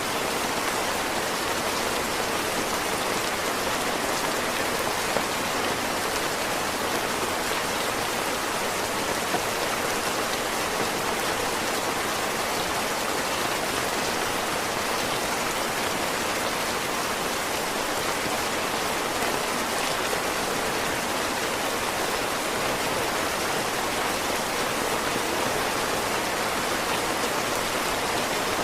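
Heavy rain falling steadily: a dense, even hiss of countless drops that neither builds nor eases.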